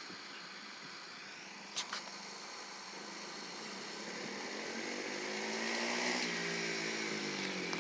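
Small 110cc dirt bike engine, faint at first, then louder from about three seconds in as its pitch rises and then falls off about six seconds in. A short click about two seconds in.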